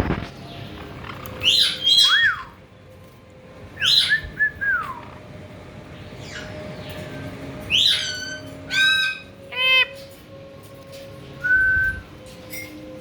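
Caique parrots calling: short sliding whistles and squawks in separate bursts, with a quick run of repeated calls about eight to ten seconds in.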